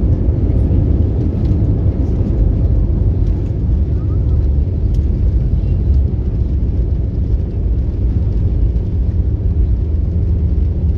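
Steady, loud low rumble inside the passenger cabin of an Airbus A321-200, the jet's engine and running noise with no distinct events.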